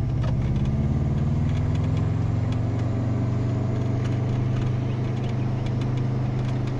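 Subaru GC8's turbocharged EJ20G flat-four engine running while driving, heard from inside the cabin. Its note rises a little over the first couple of seconds, then holds steady.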